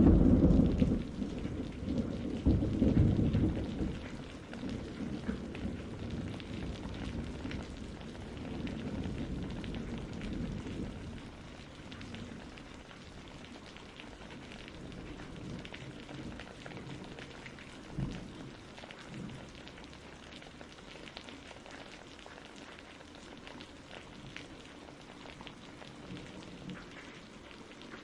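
Thunderstorm: steady rain pattering, with a loud low roll of thunder in the first few seconds that rumbles on and fades away, leaving the rain alone.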